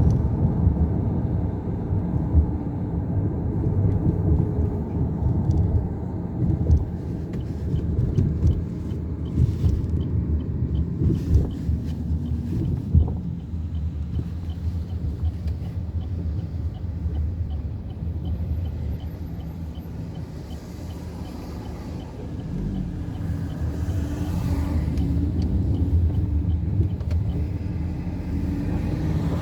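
Chevrolet Cruze 1.6 16V petrol four-cylinder and road noise while driving, heard from inside the cabin: a steady low rumble that eases off about two-thirds of the way in and builds again near the end. A faint, even ticking runs through the middle stretch.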